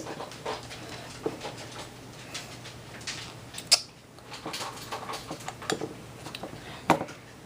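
A spoon scooping ice cream into a blender pitcher, making soft scraping with scattered clicks and knocks. The sharpest knocks come about halfway through and near the end.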